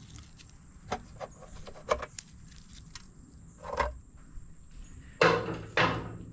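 Hand wrench working the valley pan cover bolts on a DeSoto Hemi engine: light clicks about three a second in the first half, then a short scrape and two louder metal clatters near the end.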